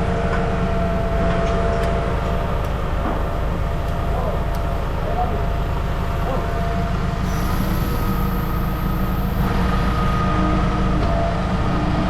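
A steady low mechanical drone, like a running engine or machine, with a few steady tones over it and occasional faint clicks.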